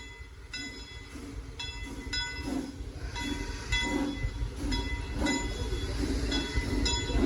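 Frisco Silver Dollar Line steam locomotive #504 rolling closer, its running rumble growing steadily louder. Its bell rings over the rumble in short, evenly spaced strokes about twice a second.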